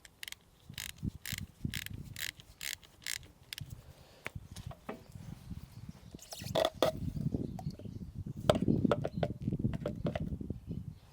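Ratchet wrench clicking as a drain plug is wound back into a track drive motor, about three clicks a second, stopping after a few seconds. Louder irregular knocks and handling noise follow.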